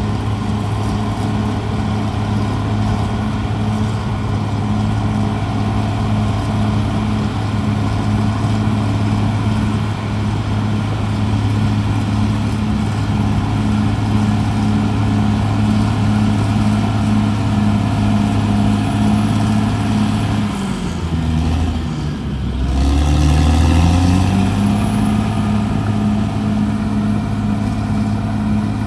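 Diesel engine of a CAT D6R XL bulldozer running steadily. About three-quarters of the way through, its pitch sags sharply as it lugs under load, then climbs back and runs louder for a moment before settling.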